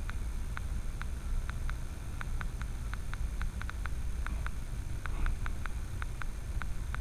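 Steady low rumble of a vehicle, with a quick, slightly uneven series of sharp ticks, about three or four a second, over it.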